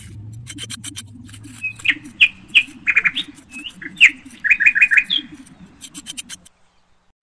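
Small birds chirping: a quick run of short high chirps, some in rapid groups of three or four, over a low rumble. The sound stops suddenly about six and a half seconds in.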